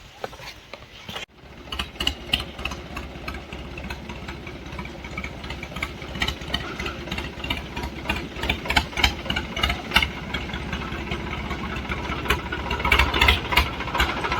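Tractor engine running with a rapid chugging beat. It comes in about a second in and grows steadily louder.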